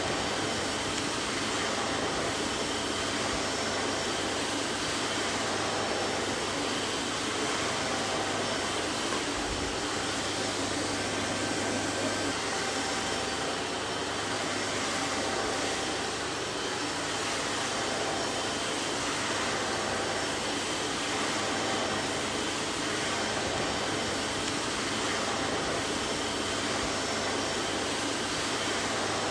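Vacuum cleaner running steadily, a constant rushing hiss of its motor and airflow with a faint hum underneath.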